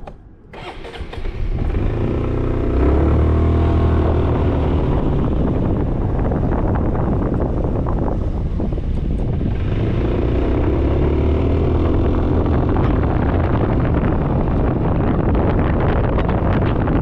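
Suzuki Burgman 400 scooter's single-cylinder engine pulling away and accelerating, its note rising twice, about two seconds in and again near the middle, over steady wind and road noise on the microphone.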